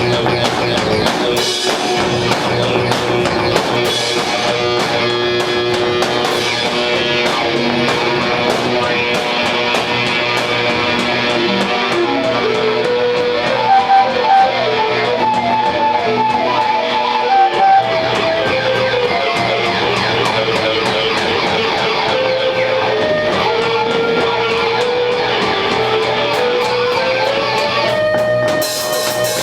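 Rock band playing live, led by electric guitar: a winding melodic guitar line over bass, with drum hits at the start.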